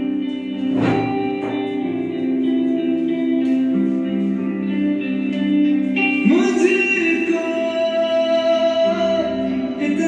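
Song with guitar and singing playing through the ViewSonic interactive flat panel's built-in speakers, a voice coming in about six seconds in. The speakers are working again after the mainboard replacement.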